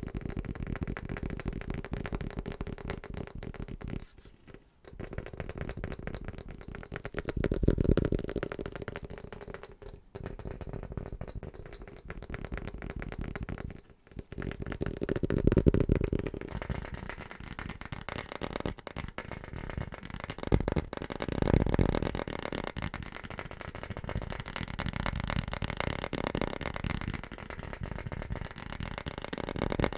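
Fast, aggressive tapping on assorted household objects: a dense, rapid stream of taps, the tone shifting from item to item, with a few brief pauses where it cuts to the next object.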